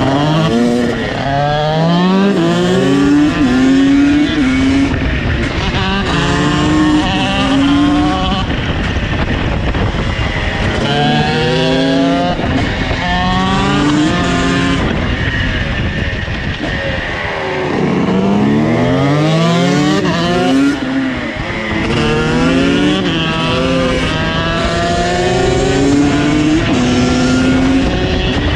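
KTM SX two-stroke supermoto engines accelerating hard, the engine note climbing and dropping back again and again through gear changes in several runs.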